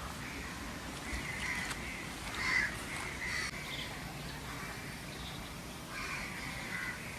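Crows cawing several times in short calls, over a steady faint background hiss.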